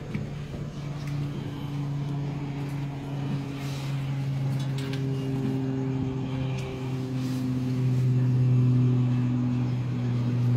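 An engine running with a steady low hum that grows louder toward the end.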